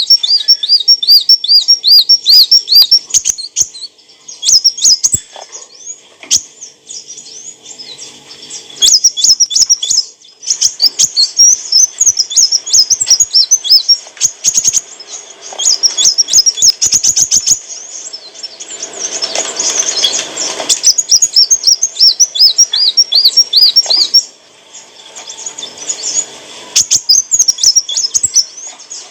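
Kolibri wulung sunbird singing: rapid series of high, looping chirps and trills, repeated in bursts with short pauses between them. A brief rustling noise sounds under the song about two-thirds of the way through.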